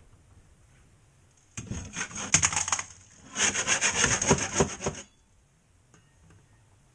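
A hand tool rasping across a drywall patch in quick back-and-forth strokes, in two runs of about a second and a half each, starting a second and a half in.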